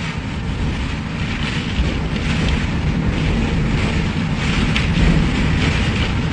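Strong thunderstorm wind gusting hard against the microphone: a loud, steady rushing noise with a heavy low rumble.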